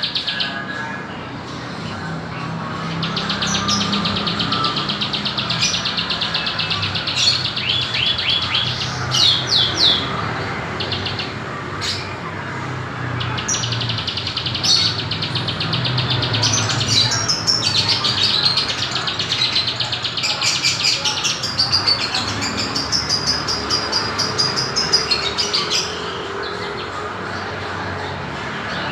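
Songbird singing in long, rapid trills and short whistled sweeping phrases, over a steady low hum.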